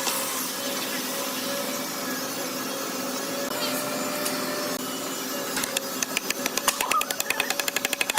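A woodworking machine running with a steady hum, then a fast, regular clatter of sharp clicks that starts about two-thirds of the way in and speeds up near the end.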